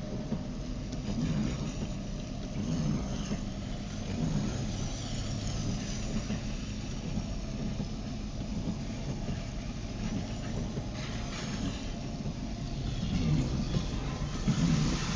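Car driving on a wet road in the rain, heard from inside the cabin: steady engine and tyre noise.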